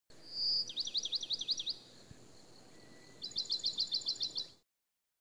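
A small bird singing faintly in two quick phrases of rapidly repeated chirping notes. The first phrase opens with a short held whistle, and the second, near the end, is a faster run of about nine notes.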